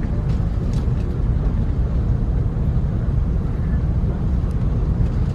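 Steady low rumble inside the parked Airbus A330-300's cabin, with a few faint clicks.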